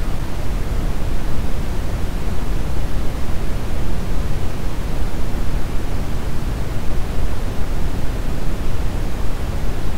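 Brown noise: a steady, deep rushing hiss weighted heavily toward the bass, with no rhythm or change.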